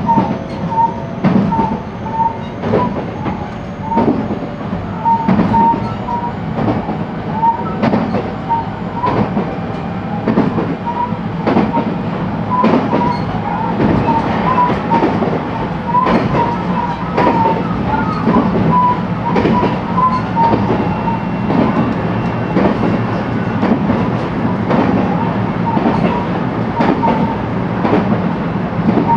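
JR West 223 series electric train running, heard from inside the motor car: a steady low rumble of wheels on rail, with frequent clicks as the wheels pass rail joints and many short, high squeaks from the wheels.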